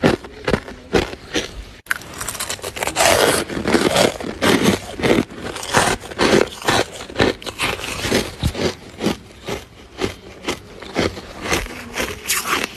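Freezer frost being scraped and crunched: a quick, uneven series of sharp crunches, with a longer, denser scrape about three seconds in.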